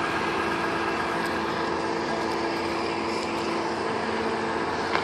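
Fire truck's diesel engine idling steadily: an even running hum with a constant tone.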